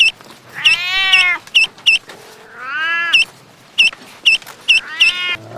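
Animal calls: three drawn-out cries that rise and fall in pitch, with short high chirps repeated in between.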